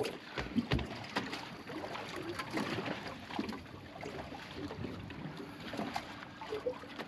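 Water lapping against a small boat's hull, with scattered light knocks and clicks.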